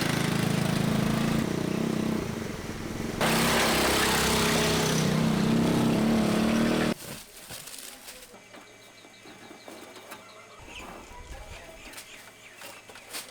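Loud machinery running with a steady low hum, cutting off abruptly about seven seconds in; then only faint clicks and ticks.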